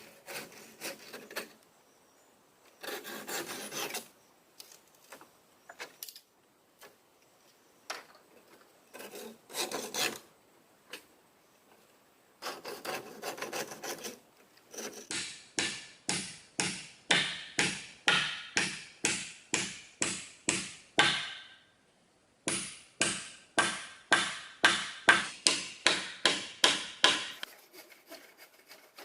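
Scraping on wood with a hand tool. Irregular scrapes come first, then two runs of quick, even back-and-forth strokes, about three a second, with a short break between them.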